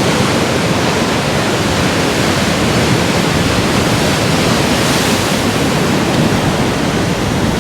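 Heavy storm surf breaking on a rocky shore: a dense, steady rush of crashing water, a little brighter about five seconds in.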